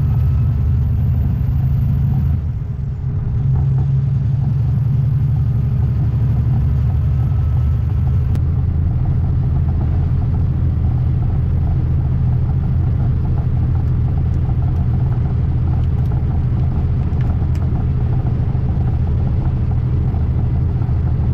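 Heavy diesel truck driving on the road, a steady low engine and road rumble, with a brief dip in loudness about two and a half seconds in.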